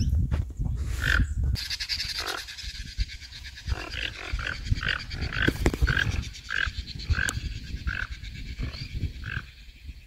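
A bird calling a rhythmic series of short notes, about two a second, that begins about four seconds in, over a steady high insect buzz.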